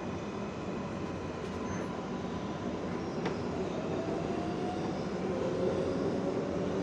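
R142A subway train running, heard from inside the car: a steady rumble of wheels on rail, with a single click about three seconds in and a faint whine from the traction motors that rises slightly in pitch in the second half.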